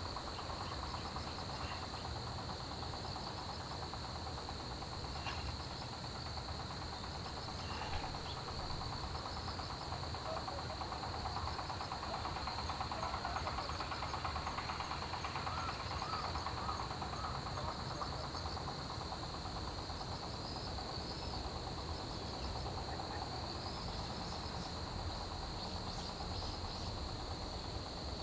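Autumn grass insects, crickets among them, in a steady chorus: one even high trill under a faster, higher rhythmic pulsing chirp, with scattered softer chirps.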